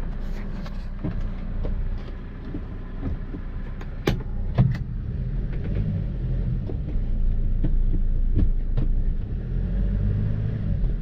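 A Hyundai Porter truck's diesel running, heard as a steady low rumble. A few sharp knocks come through it, the loudest two about four seconds in.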